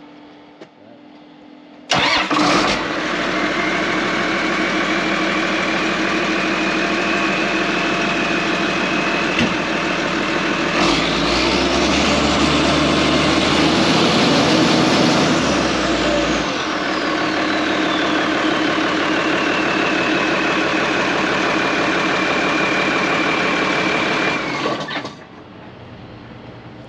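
Tractor engine starting and running through a newly fitted muffler, which makes it sound better; a high whine rises and falls partway through, and the engine shuts off suddenly near the end.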